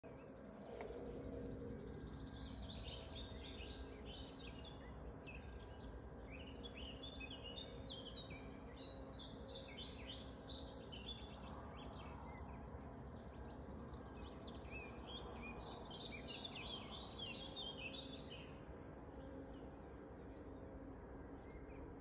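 A songbird singing long runs of quick, high chirps and trills. It pauses about 11 seconds in and starts again a few seconds later, over a faint, steady low hum.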